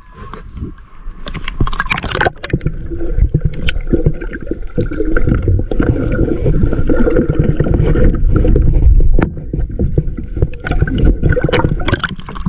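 Water sloshing and gurgling around a kayak, with irregular splashes and knocks from paddling, over a heavy low rumble on the microphone.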